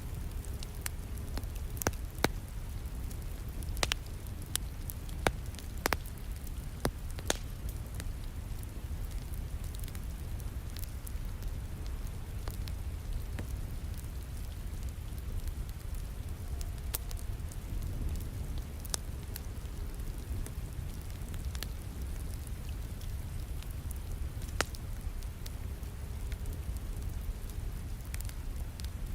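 Wood fire crackling with scattered sharp pops, most frequent in the first several seconds, over a steady hiss of rain with a low rumble beneath.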